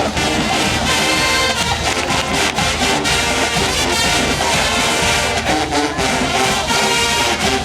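A marching band playing loudly, massed brass over a steady drum beat.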